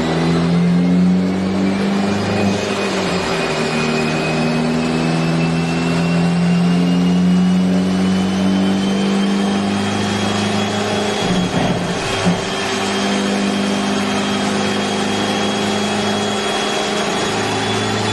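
Hyundai Elantra N's turbocharged 2.0-litre four-cylinder engine running steadily while the car drives, its pitch shifting in steps, with a high whine that slowly rises in pitch.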